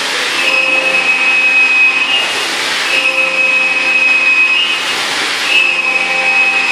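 CNC milling machine trochoidal-milling 6082 aluminium with a 3-flute end mill at 8,000 rpm. A steady high-pitched whine is broken by a brief louder hissing surge about every two and a half seconds, repeating as the cutter sweeps round its looping path.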